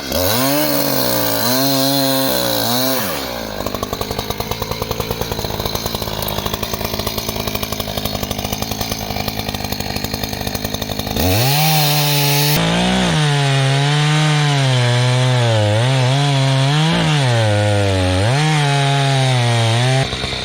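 Power saw cutting through a downed tree, its motor pitch rising and dipping as it bogs and recovers under load. It gets louder about eleven seconds in.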